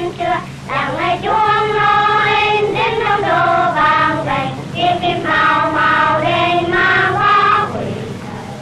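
Children singing a slow tune, each note held for about a second before stepping to the next.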